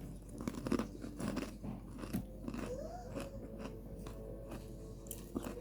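Close-up crunchy chewing, a string of short irregular crunches and clicks. A faint thin melody comes in about halfway through.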